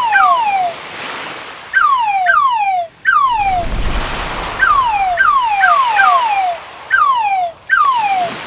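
Crab sound effect for a cat game: short whistle-like chirps, each falling in pitch, repeated about a dozen times, often in quick pairs. They play over a steady wash like breaking surf, which swells about halfway through.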